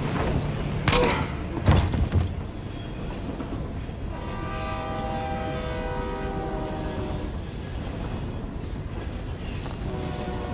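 Passenger train running on the rails with a steady low rumble, as heard in a film's sound mix. In the first two seconds there are a few heavy thuds, and from about four to seven seconds in a held, horn-like chord sounds over the rumble.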